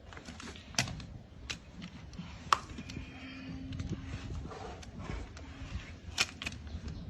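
Scattered sharp clicks and knocks of hoof trimming on a donkey's hoof, with the loudest crack about two and a half seconds in and a pair of clicks near the end.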